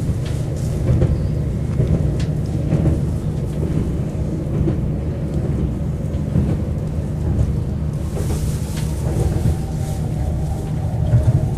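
Passenger train running along the track, heard from inside the car: a steady low rumble with light rattling, and more hiss joining in from about eight seconds in.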